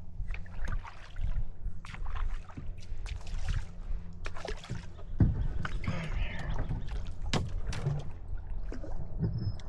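Water splashing and trickling as a kayak paddle works through the water, with a few sharp knocks.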